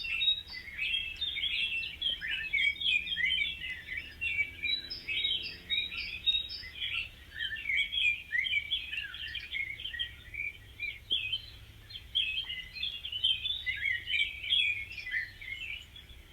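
A chorus of small birds chirping and twittering, many quick, overlapping high calls with no pause.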